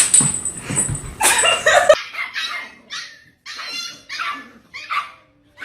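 A dog barking in a string of short, high barks, about two a second. This follows a loud, noisy passage that cuts off abruptly about two seconds in.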